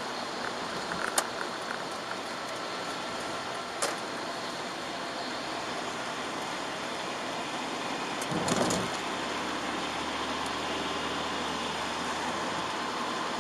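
Steady hiss of tyres on a wet road and rain, heard from inside a Chevrolet Aveo's cabin, with two sharp clicks in the first four seconds and a louder rushing swell about eight and a half seconds in, after which a low engine hum stands out.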